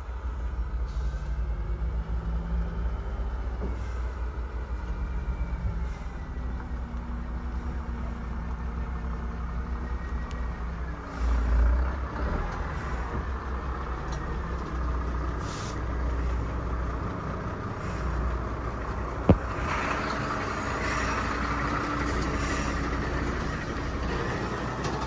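Heavy trucks' diesel engines running under load as a truck climbs the hill, with a louder swell about halfway through and a burst of hiss near the end.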